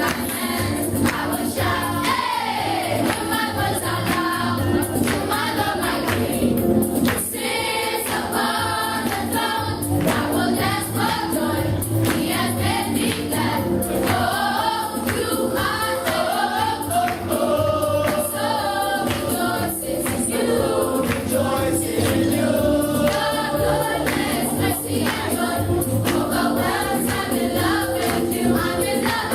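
Choir singing gospel music over instrumental accompaniment with a steady beat.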